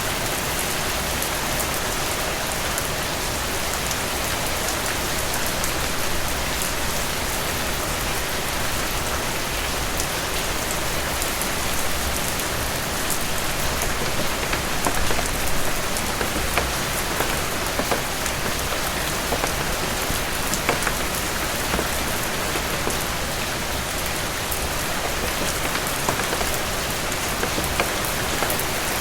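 Steady rain falling on a cabin roof, an even wash with many fine drop ticks and small swells in intensity.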